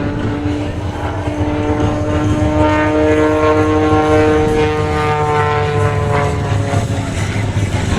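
Single-engine aerobatic propeller plane flying overhead: a steady engine-and-propeller drone whose pitch swells and then sinks over a few seconds as the plane manoeuvres past.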